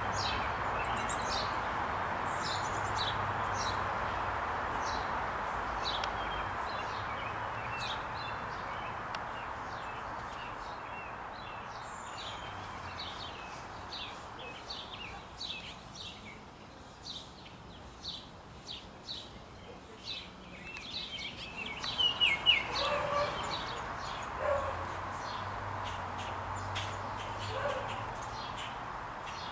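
Small birds chirping over and over, short high chirps scattered throughout, with a burst of louder, lower calls about two-thirds of the way in. A steady background rush is heard at first and fades out by about the middle.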